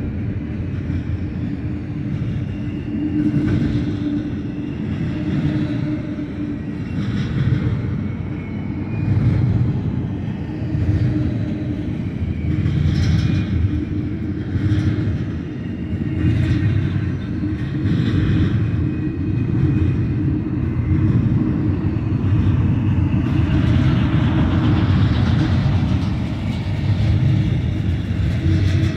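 Double-stack container well cars of a freight train rolling past: a steady low rumble of steel wheels on rail, with a higher clatter that swells every second or two as each car's wheels go by.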